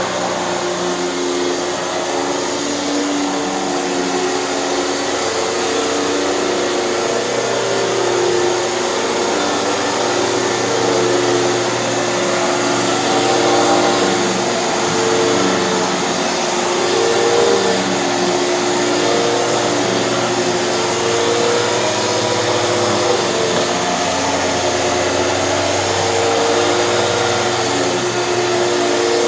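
Hoover canister vacuum running with its power nozzle being pushed back and forth. The motor keeps up a steady whine whose pitch wavers slightly as the nozzle moves.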